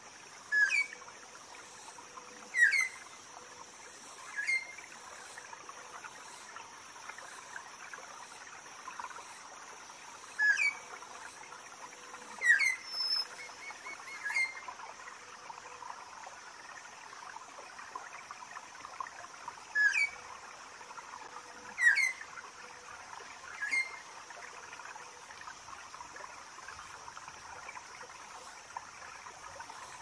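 Jungle ambience: a bird gives short, loud falling whistles in sets of three, each set repeating about every nine seconds, over a steady high cicada drone and a trickling stream.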